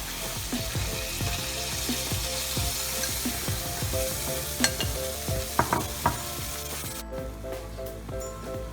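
Pork ribs sizzling in a pan, with a few sharp clicks around the middle; the sizzle cuts off suddenly about seven seconds in. Light background music plays underneath.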